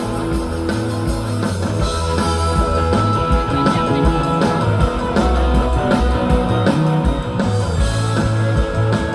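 Live rock band playing an instrumental break between sung lines: electric guitar over steady bass and drums.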